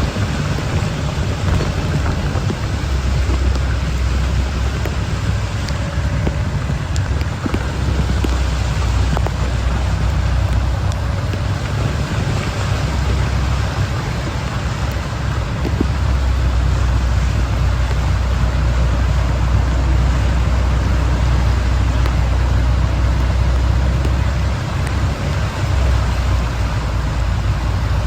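Steady low rumble of a vehicle and road traffic in heavy rain, with rain hiss over it; the rumble swells for a stretch past the middle.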